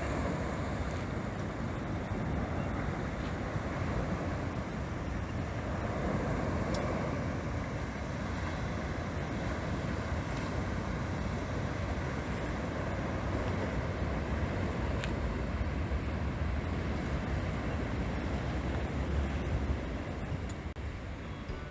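Steady rushing noise with a deep rumble and no break.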